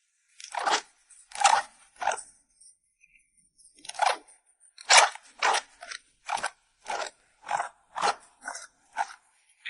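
A Corgi-mix dog chewing crunchy food close to the microphone: sharp, separate crunches, three in the first two seconds, then a short pause, then a steady run of about two crunches a second.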